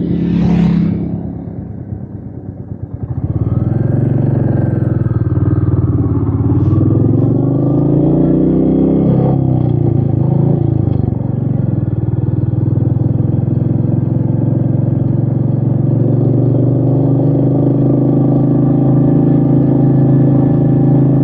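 Royal Enfield Meteor 350's single-cylinder engine heard from the rider's seat. After a brief loud rush of noise at the start and a short quieter spell, the engine picks up about three seconds in, its pitch rising and falling several times, then holds a steady note.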